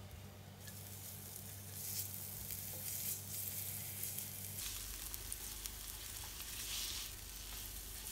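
Chopped garlic and onion sizzling in oil in a nonstick wok as they are sautéed. A silicone spatula stirs through them, and the sizzle swells with each stroke.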